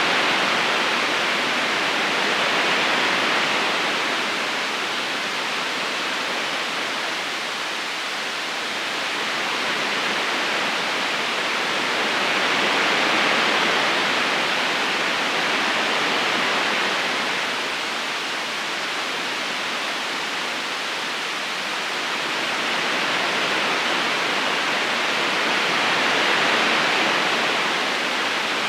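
River current flowing steadily, an even rushing hiss that slowly swells and eases.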